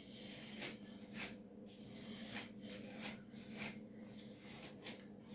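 Soft, irregular rustling and rubbing of hands working through hair, several short strokes a second, over a faint steady hum.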